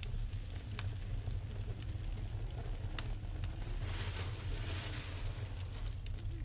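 Wood fire burning in a fireplace: a steady low rumble of flames with scattered sharp crackles and pops, and a hissing swell about four seconds in.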